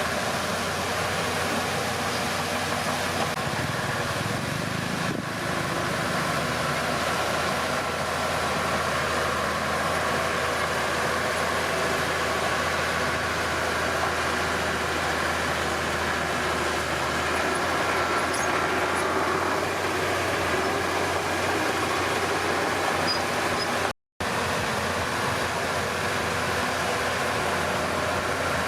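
Heavy diesel engine of a Komatsu D31P bulldozer running steadily under work. The sound cuts out completely for a moment about 24 seconds in.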